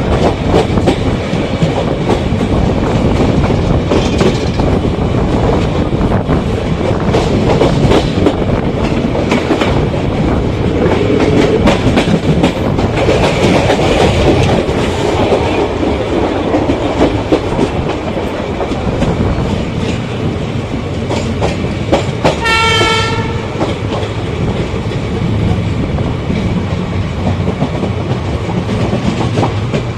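Passenger train running at speed: a steady rumble of wheels on rail, with the clicking of rail joints throughout. About two-thirds of the way through comes a short single-note locomotive horn blast lasting about a second.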